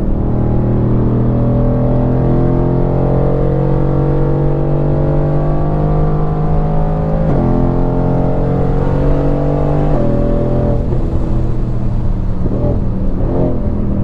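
Mercedes-AMG GT R's twin-turbo V8 pulling through the gears at part throttle: its pitch rises slowly, drops sharply at an upshift about seven seconds in, climbs again and drops at a second upshift about ten seconds in, then wavers as the throttle eases.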